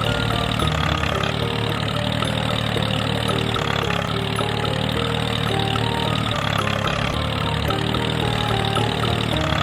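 Small engine running steadily at idle, a continuous low hum with no revving or stops.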